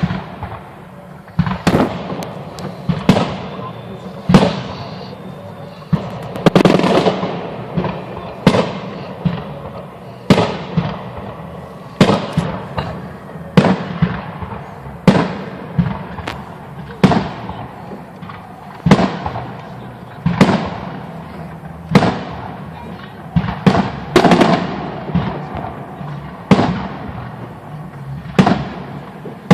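Holiday fireworks salute: aerial shells bursting one after another, about one sharp bang a second, each followed by a rolling echo, with a quicker cluster of bursts a few seconds in.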